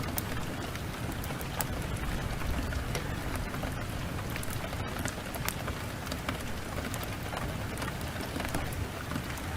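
Heavy rain pouring steadily, with scattered sharp crackles from a wood fire.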